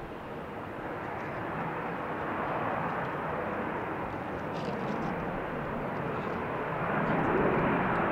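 Jet airliner's engines, a steady rushing roar that grows steadily louder as the aircraft approaches.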